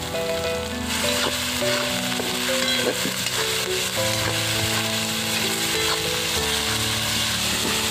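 Onions, tomatoes and ginger-garlic paste sizzling in hot mustard oil in a metal wok, stirred with a perforated metal spatula. Background music with held notes plays along.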